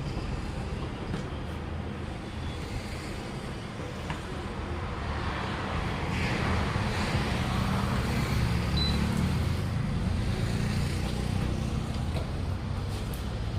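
Motor vehicle engine rumble with road traffic noise, swelling louder about five seconds in, as a vehicle passes close by, and easing off again after about ten seconds.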